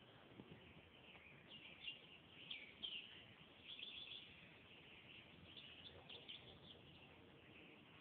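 A bird singing faintly outdoors: short high whistled notes and chirps in small groups, starting about a second and a half in and recurring through the rest of the stretch.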